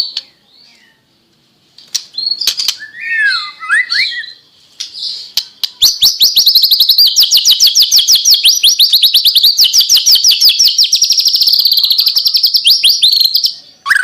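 White-rumped shama (murai batu) singing: a few varied whistled and gliding phrases, then from about six seconds in a long, fast run of sharp repeated notes, about ten a second for some seven seconds. This rapid-fire volley is the 'tembakan' of a shama in full song ('gacor').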